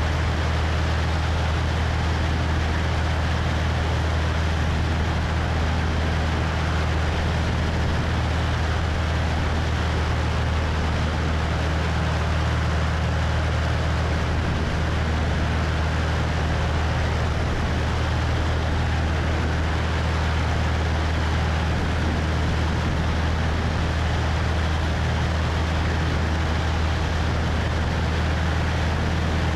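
Cessna 172's piston engine and propeller running steadily with a constant low hum, under wind rushing over a wing-mounted microphone.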